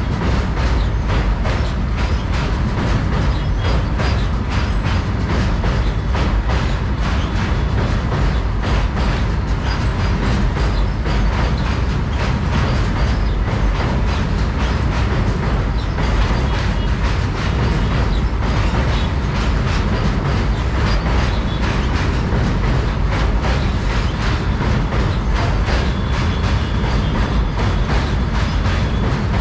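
Covered freight wagons of a goods train rolling past on a steel girder bridge: a steady rumble with rapid wheel clicks over the rail joints.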